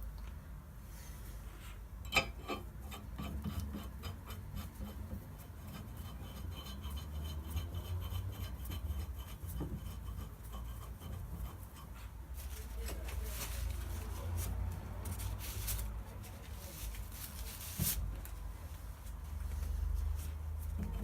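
Hand work on metal car parts: a sharp click about two seconds in, then a run of rapid, even ticking for about ten seconds, then rubbing and scraping with another click near the end.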